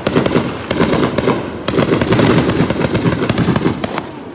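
Fireworks going off: a dense, rapid crackle of many small bangs, thinning out near the end.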